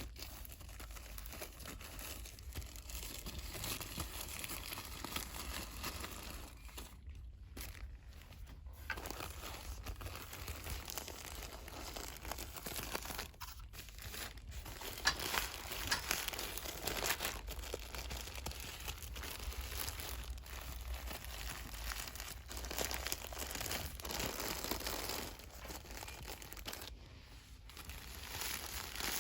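Hands quickly crinkling and scrunching product packaging, with a few brief pauses, over a steady low hum.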